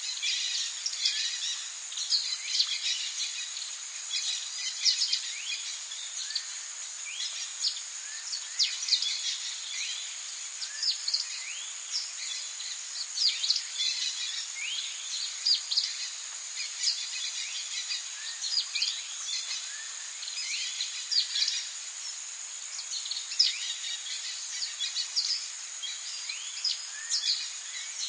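Rainforest birds chirping in many short, quick calls, one after another, over a steady high insect drone and a soft steady hiss.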